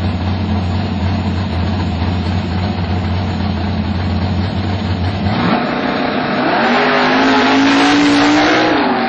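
Chevrolet Nova drag car's engine idling with a deep rumble on the start line, then launching about five seconds in and running hard up through the revs, its pitch climbing and getting louder, before dropping in pitch near the end at a gear change.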